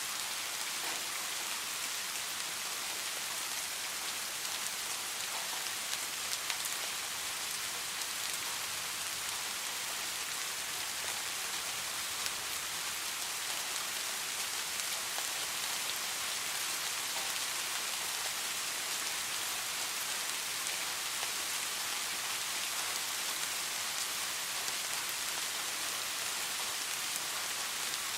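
Steady, even rain: a dense hiss of falling rain with scattered small drop ticks, no thunder.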